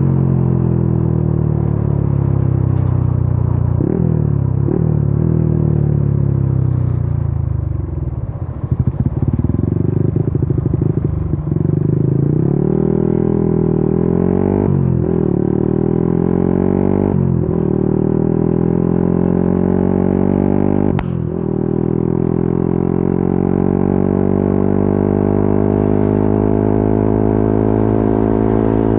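Yamaha Y15ZR's single-cylinder 150 cc four-stroke engine, heard from the rider's seat, pulling up through the gears. The pitch climbs and then drops abruptly at each quick upshift, several times over. About a third of the way in the engine comes off the throttle and runs choppy, then pulls hard again through more shifts.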